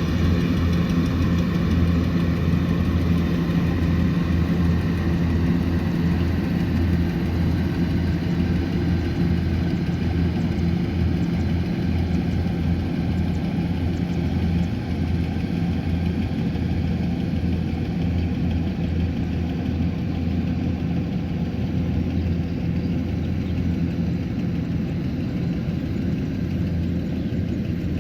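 Kubota combine harvester's diesel engine running steadily with a deep, even hum, growing a little quieter in the second half.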